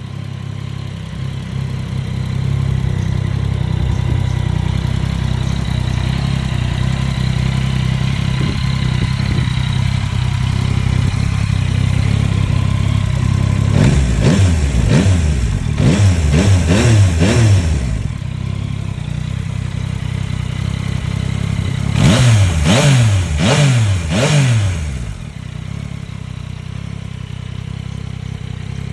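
Yamaha Tracer 9 GT's 890 cc three-cylinder engine through its stock exhaust, idling steadily, then revved in a quick run of throttle blips about halfway through and in a second shorter run a few seconds later, before settling back to idle.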